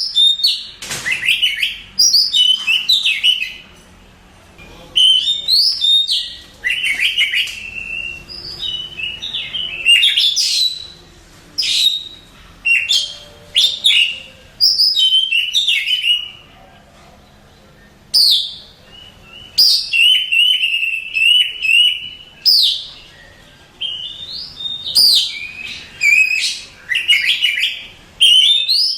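Oriental magpie-robin singing: short bursts of varied whistles and fast chirping, sweeping notes, phrase after phrase with brief pauses between.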